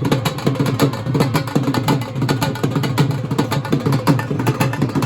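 Loud, fast drumming with many sharp strokes in a quick, driving rhythm.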